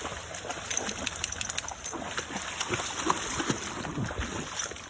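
Border collie splashing about in creek water: irregular small splashes and sloshes over the steady run of the stream.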